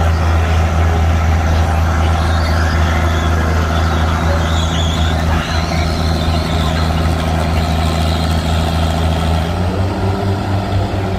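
Tractor engine running steadily and loudly at close range, a deep even drone that shifts slightly in pitch near the end.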